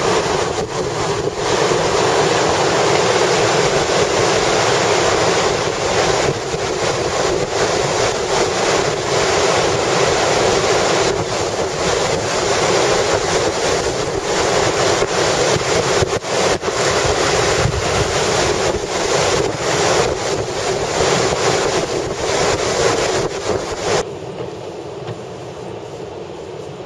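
Storm-force wind buffeting the microphone in heavy gusts, a loud dense roar. Near the end it drops abruptly to a quieter, steadier rush.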